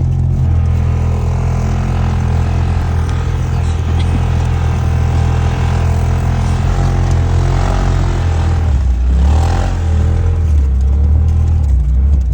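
Side-by-side UTV engine running steadily, its pitch shifting up and down a few times in the last few seconds.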